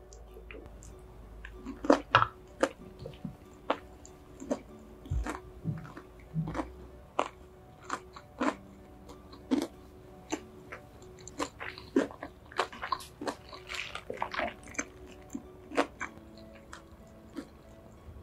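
Close-miked chewing of crispy boneless fried chicken with rice: a run of sharp crunches, about two a second, over soft background music.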